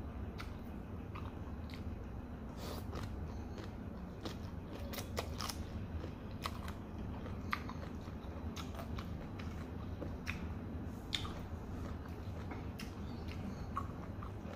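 A person chewing fried noodles close to the microphone: wet mouth sounds with many small, sharp clicks and smacks scattered irregularly, over a steady low hum.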